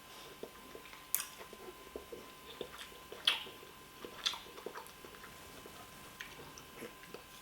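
A person eating fufu with oha soup close to the microphone: soft wet chewing and mouth sounds with scattered small clicks, a few sharper ones about a second, three seconds and four seconds in.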